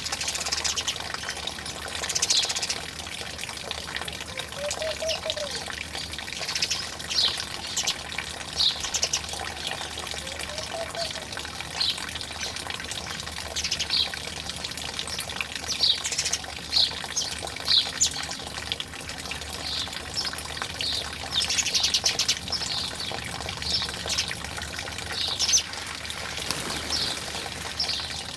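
Small birds chirping in short, repeated high notes, over a steady sound of running water. Two brief low calls come in, about five seconds in and again near eleven seconds.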